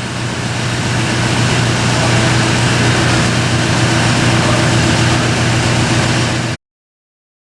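A machine running steadily, a low hum under a loud even hiss, cutting off abruptly about six and a half seconds in.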